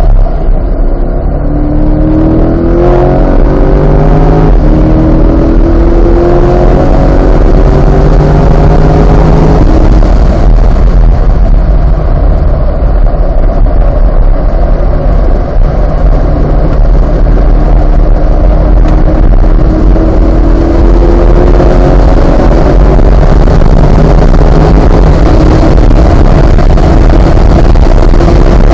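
Chevrolet C8 Corvette's 6.2-litre V8 driven hard on a race track. The engine pitch climbs and drops back several times in the first ten seconds, eases for a few seconds, then climbs steadily again. A steady rushing noise runs underneath.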